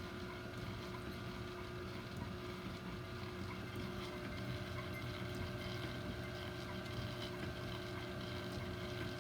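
Electric motor of an old machine tool running steadily at slow speed, a constant hum with a few steady tones over a low rumble.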